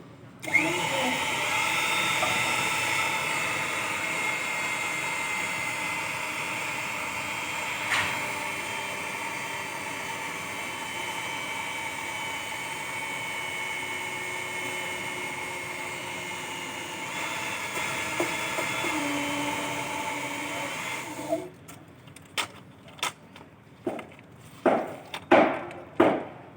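A power tool running steadily for about twenty seconds with a high whine that sags slightly in pitch, then cutting off. Several sharp knocks follow near the end.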